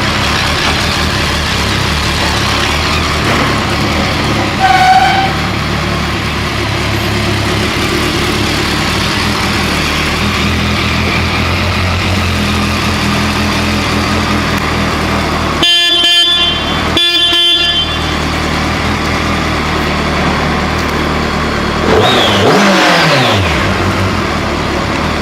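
2008 BMW K1200 GT's inline-four engine idling steadily. The horn gives a short beep about five seconds in and two loud blasts about a second apart near the middle. Near the end the engine is shut off and its pitch falls away.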